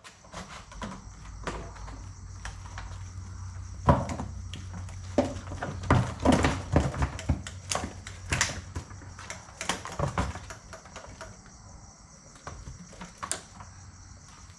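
Night insects chirring steadily, with many irregular knocks and clatters over them, thickest in the middle.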